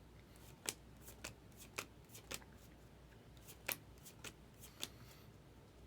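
Baseball cards being flipped through one at a time in the hand, cardboard sliding and flicking off the pile: about ten short, sharp flicks in two quick runs, with a pause of about a second partway through.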